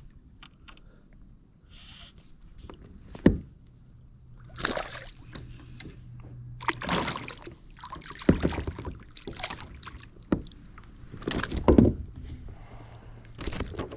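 A hooked largemouth bass being fought and landed beside a kayak: a series of irregular splashes and rustles about every one to two seconds, with a sharp knock on the kayak about three seconds in.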